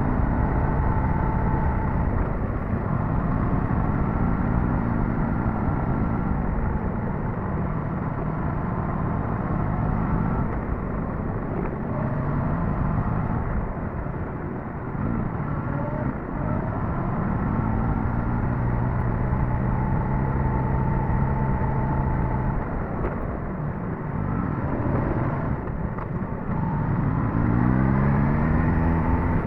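Suzuki GSX-S1000GT's inline-four engine running under way, its pitch rising and falling with the throttle, with a quick climb in revs near the end, over a steady low rumble.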